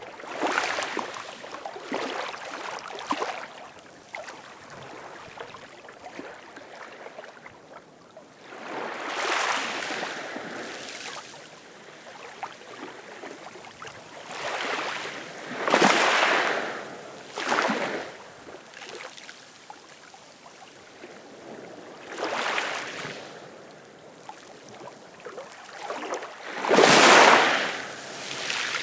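Ocean waves washing in, each one swelling and fading as a rush of water every few seconds, the loudest near the end.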